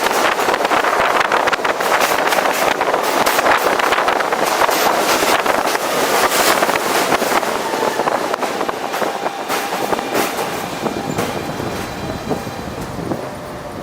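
F subway train running at speed, heard from its roof: wheels clattering over the rail joints with a heavy rush of wind. It eases off near the end with a faint falling whine as the train slows.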